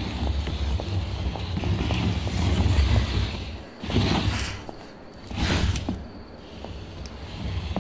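A car engine running with a low, steady rumble, under a hiss of background noise. Two loud whooshes sweep through, about four and five and a half seconds in.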